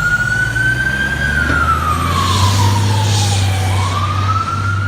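Fire apparatus siren wailing: the tone holds high, falls slowly about a second in, then rises again near the end, over a heavy truck engine running. A brief hiss sounds midway.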